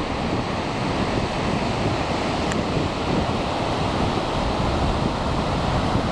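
Surf breaking and washing up a sandy beach in a steady rush, with wind buffeting the microphone.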